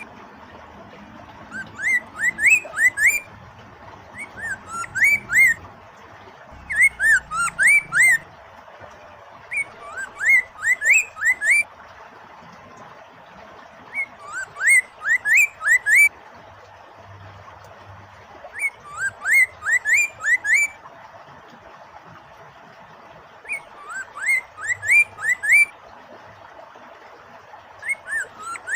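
Poksay mandarin (Chinese hwamei, a laughingthrush) singing in short phrases of four to six quick rising whistled notes, a phrase about every four seconds. A steady rush of flowing water runs beneath the song.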